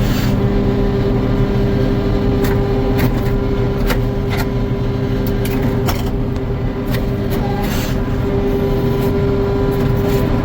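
Sawmill machinery running steadily: a continuous mechanical hum with scattered short clicks and knocks.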